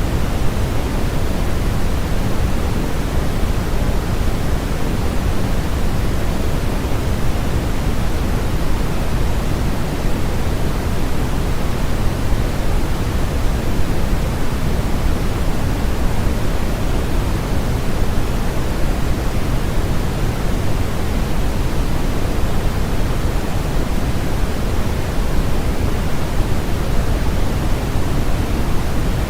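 Steady generated noise for sleep and masking, an even hiss that never changes, heavier and deeper in the low end than in the highs.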